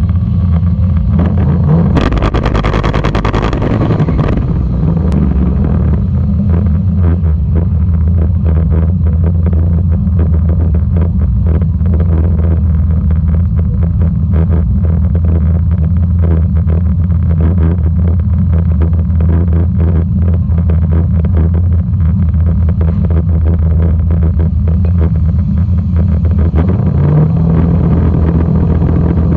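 LS-swapped Miata's LC9 5.3-litre V8, fitted with a Sloppy Stage 3 cam, idling in the cabin with a steady pulsing beat while the car waits to stage. About two seconds in there is a loud burst of noise lasting a couple of seconds, and near the end the engine note rises slightly.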